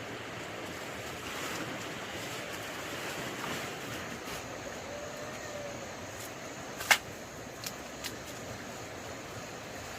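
Steady rushing background noise, with one sharp click about seven seconds in and two fainter clicks soon after.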